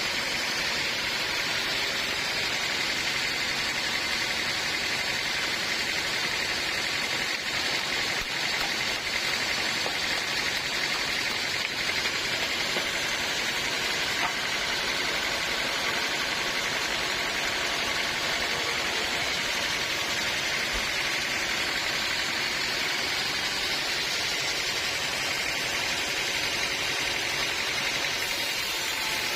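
Sawmill machinery running steadily, an even mechanical hum with a strong hiss-like band high up and no breaks.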